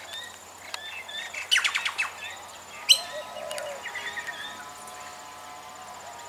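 Wild birds chirping and calling in short, repeated notes, with a quick run of sharp notes about one and a half seconds in and a single sharp click about three seconds in.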